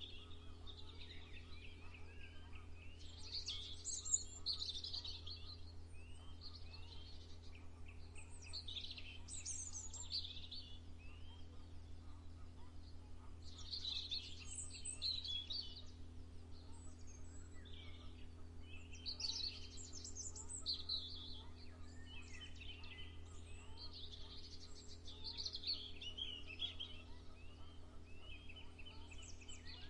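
Several small birds chirping and singing in overlapping bursts of quick high trills, over a steady low hum.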